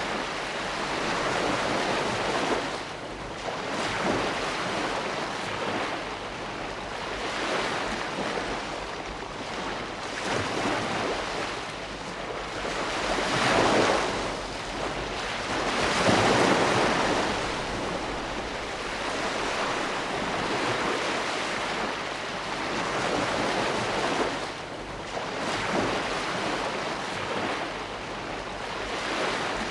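Ocean waves breaking and washing on a shore: a continuous surf hiss that swells with each wave, the loudest waves about thirteen and sixteen seconds in.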